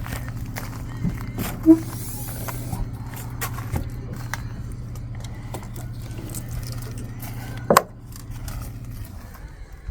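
A vehicle engine idling with a steady low hum, with scattered clicks and knocks, shutting off after a thump about eight seconds in.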